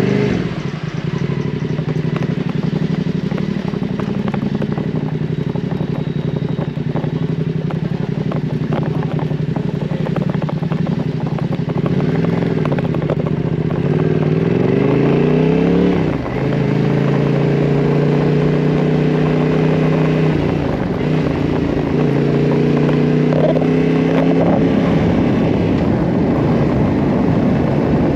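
Yamaha Ténéré 700 parallel-twin engine under way at steady revs, heard from on the bike. In the middle the revs climb and fall a few times, with one sharp drop about halfway through, then it settles back to an even pull.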